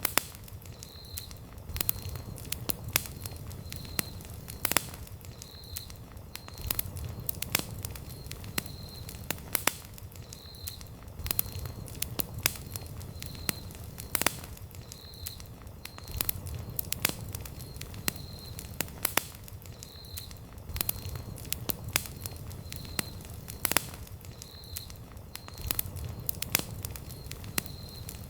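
Wood campfire burning, with sharp crackles and pops at irregular intervals over a low steady rumble. A faint high chirp repeats about once or twice a second through it.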